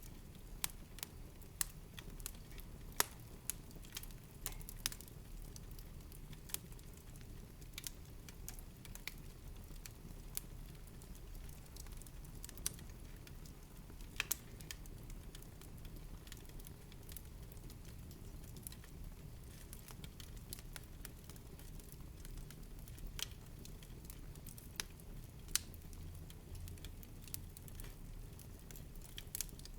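Wood fire in a fireplace crackling: irregular sharp pops and snaps over a low, steady background of burning.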